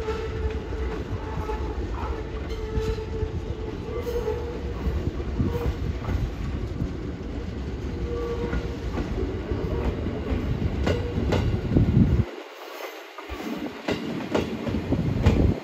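JR 205-series electric commuter train rolling slowly into a station, its wheels clicking over rail joints and points over a low rumble, with an on-and-off faint squeal. Near the end the low rumble cuts out abruptly twice as the train slows.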